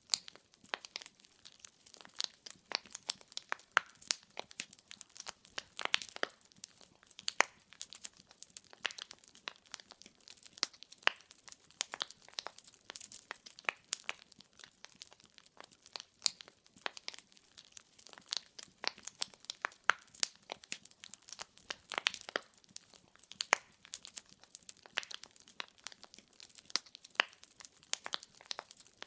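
Firewood logs burning in a fireplace, crackling with many sharp pops and snaps at irregular intervals over a faint hiss.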